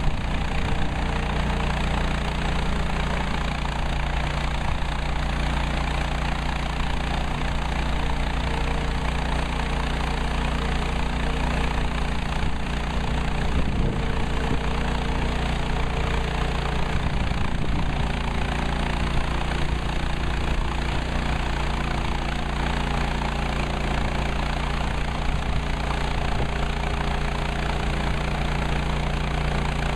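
Gasoline engine of a Woodland Mills HM130 Max portable bandsaw sawmill running steadily.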